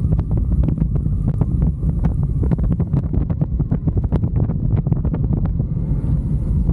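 Heavy wind rumble and buffeting on the microphone of a riding motorcycle, with a steady low rumble and rapid crackles.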